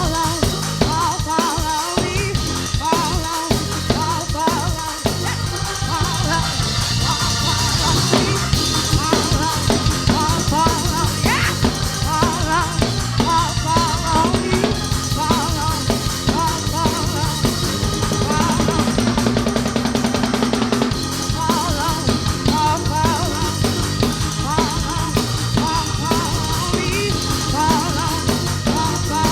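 Gospel praise music: a band with drum kit and guitar playing a steady beat.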